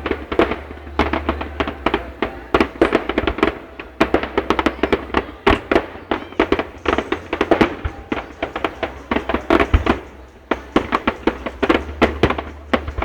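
Fireworks going off in a rapid, dense run of crackling bangs, several per second, with no let-up.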